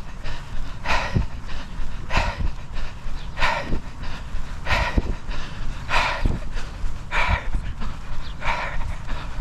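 A person breathing hard while running, one rough breath about every second and a quarter, over low rumbling and thudding.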